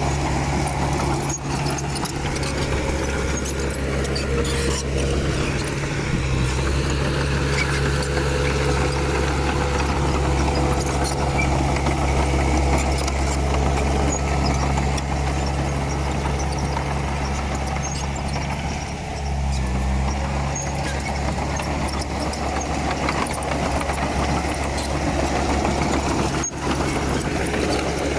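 Komatsu D31P crawler bulldozer's diesel engine running steadily under work, with a brief change in engine note about two-thirds of the way through and faint clicks and clatter over it.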